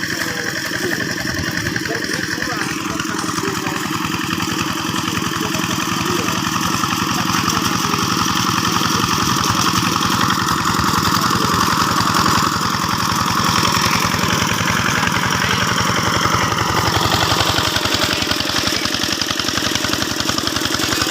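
Single-cylinder diesel engine of a two-wheel hand tractor running steadily with a fast, even chugging, its tone shifting about three-quarters of the way through.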